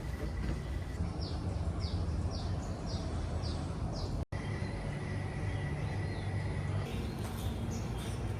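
Outdoor ambience: a steady low rumble with a bird giving a run of short, high, falling chirps, about two a second, over the first half. The sound cuts out for an instant just after the middle.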